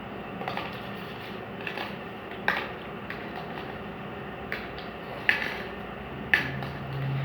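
Cutlery clinking against plates while rice pulao is being eaten: three sharp clinks and a few lighter ticks. A low steady hum starts near the end.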